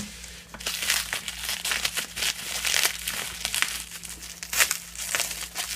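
Packaging around a boxed model being torn open by hand, with continuous irregular crinkling and crackling.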